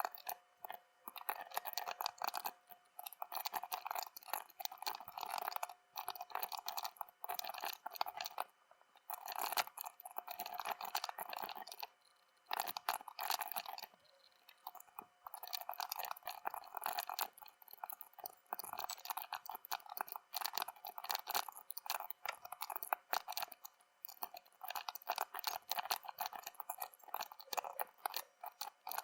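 Epomaker Skyloong GK75 mechanical keyboard typed on rapidly, a dense run of key clicks with a couple of short pauses.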